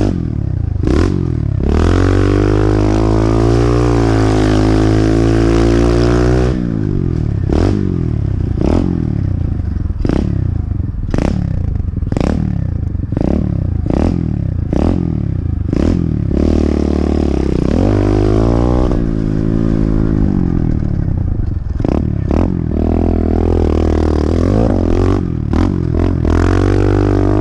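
Pit bike engine revving up and falling off again and again as it is ridden hard around a dirt track, with short sharp knocks and clatter between the revs.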